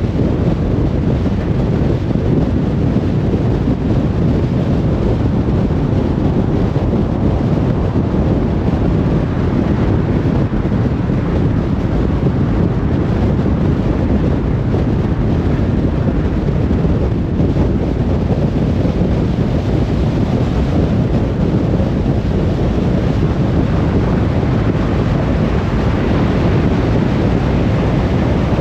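Car driving along a motorway: a steady, even low rumble of tyre and wind noise with no change in speed.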